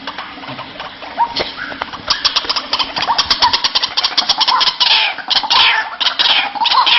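White-breasted waterhen calling: a fast series of harsh clicking notes begins about two seconds in and runs into loud, repeated croaking calls.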